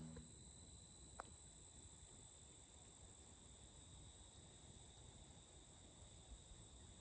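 Faint, steady, high-pitched trilling of crickets in near silence, with a single faint click about a second in.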